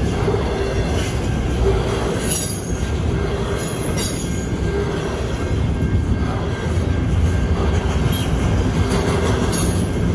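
Double-stack intermodal container cars rolling past on steel rails: a steady rumble of wheels with a few brief high-pitched wheel squeals, around two and four seconds in and again near the end.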